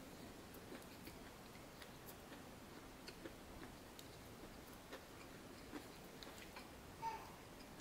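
Quiet chewing of a crusty bánh mì baguette sandwich: faint, irregular small clicks and crackles of mouth and bread. A short high squeak sounds near the end.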